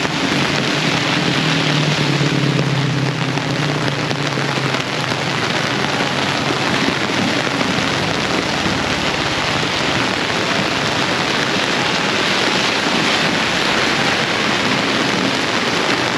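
Heavy rain pouring steadily onto streets and puddles, a dense even hiss of a torrential downpour. A low hum sits under it for the first five seconds or so, then fades out.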